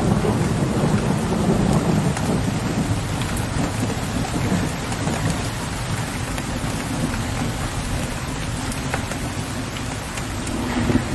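Steady heavy rain with scattered drops tapping, under a low rumble of distant thunder that is strongest in the first couple of seconds and then fades.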